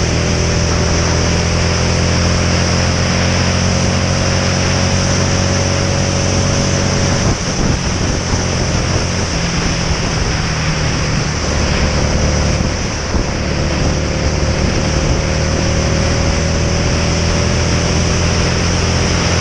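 Motorcycle engine running at road speed under heavy wind rush on the camera. For several seconds in the middle the low engine note drops away and goes ragged, then comes back steady, as when the throttle is rolled off and back on.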